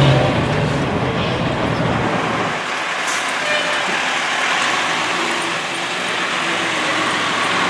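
Vehicle traffic noise: a heavy engine's low running sound dies away about two seconds in, leaving a steady roadway hiss with a short sharp hiss about three seconds in.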